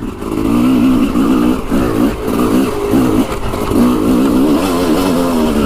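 Yamaha YZ dirt bike engine being ridden, its pitch repeatedly rising and dropping as the throttle is worked on and off.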